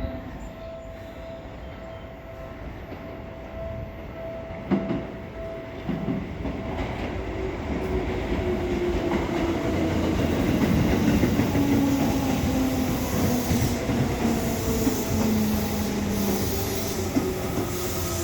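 Seibu 101 series electric train pulling into a station and growing louder. Its wheels clack over the rail joints, and a whine falls steadily in pitch as it slows, with a rising hiss in the later part.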